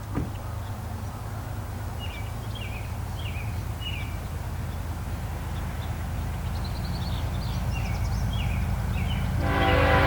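Diesel freight locomotive approaching, a low rumble that grows steadily louder, with birds chirping. Near the end the locomotive's air horn starts to sound, a steady chord.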